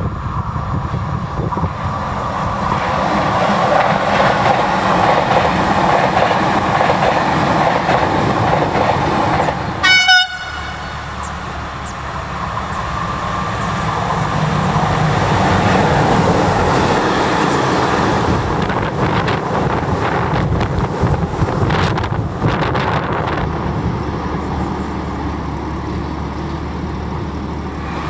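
Trains passing through a station: a locomotive-hauled passenger train rumbles by, a brief horn toot sounds about ten seconds in, then a red diesel locomotive passes with a steady rumble that swells and fades, with wheel clacks over the rail joints a few seconds before the end.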